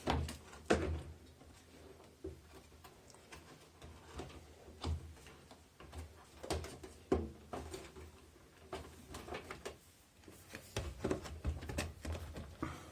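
Scattered clicks and knocks of parts being handled and fastened while reassembling a top-loading washing machine, the loudest knocks about a second in and about seven seconds in.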